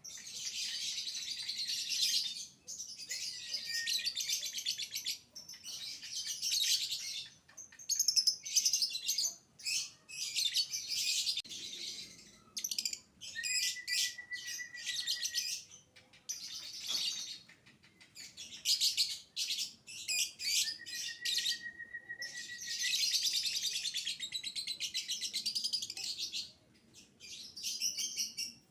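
Young lovebird singing in the 'biola' style: long high chattering stretches of several seconds, broken by short pauses, with a couple of held whistled notes of about two seconds.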